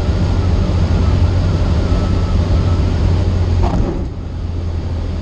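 Cessna 152's four-cylinder Lycoming engine and propeller droning steadily at cruise, heard from inside the cockpit. About four seconds in there is a short chirp and the sound briefly dips and turns duller.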